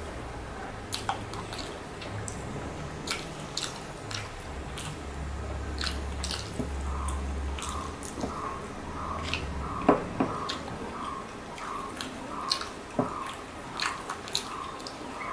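Close-up chewing and wet mouth sounds of someone eating egg curry and rice by hand, with scattered lip smacks and clicks. From about halfway, a faint chirp repeats about twice a second in the background.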